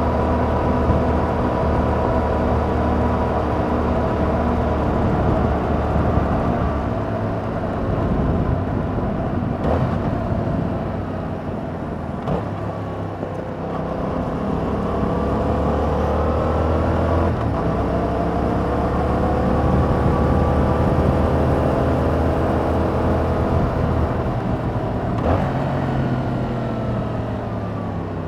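2021 Yamaha MT-07's 689 cc parallel-twin engine running through its stock exhaust on the move, its pitch rising and falling with a few short breaks as the rider works the throttle.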